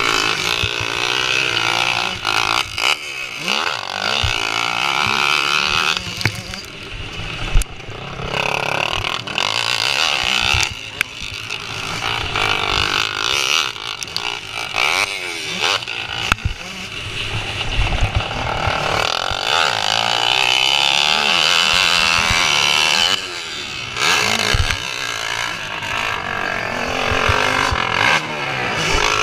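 Motocross bikes racing, their engines revving up and easing off over and over as riders work the throttle around the track.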